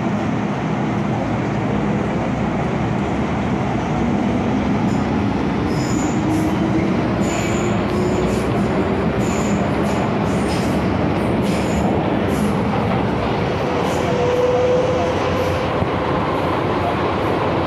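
MTR M-Train electric multiple unit running, heard from inside the car, with a motor whine that rises steadily in pitch as the train picks up speed. Short high-pitched wheel squeaks come and go in the middle of the run.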